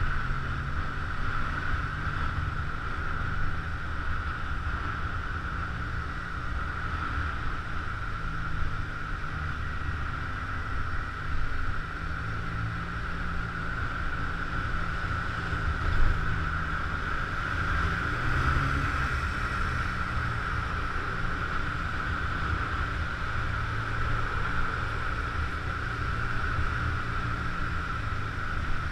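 Scooter engine running steadily while riding, with wind noise on the microphone and a steady high hum over the engine note.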